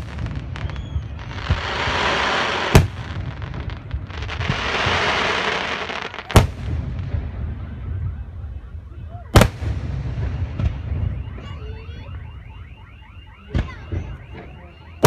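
Fireworks display: aerial shells bursting with four sharp bangs a few seconds apart. Long hissing, crackling swells come between the bangs in the first half.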